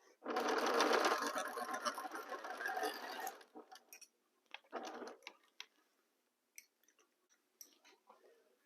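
Sewing machine stitching a seam in a run of about three seconds, then a brief second run, followed by scattered light clicks and taps.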